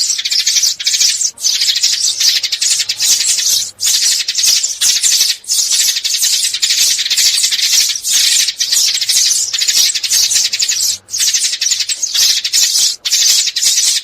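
Sparrows chirping and chattering rapidly, a dense high-pitched twitter broken by brief gaps every second or two. It is a sparrow call recording of the kind played as a lure for trapping.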